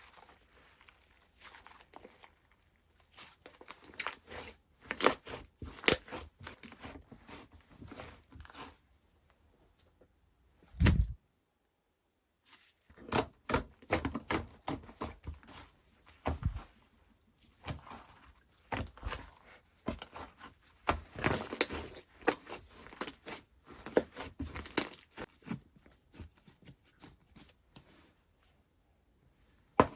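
Slime being squeezed, stretched and pressed by hand, giving many quick sticky clicks and pops. A low thump about eleven seconds in is followed by a brief pause, then the clicking resumes.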